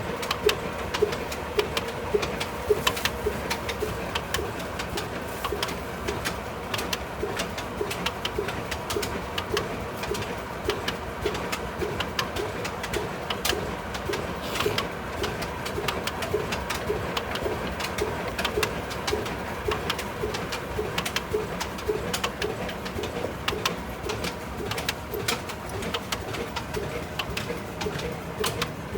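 A 75-year-old stationary engine running at a slow, steady speed, its firing beats coming about twice a second in an even, cooing rhythm, with sharp clicks throughout.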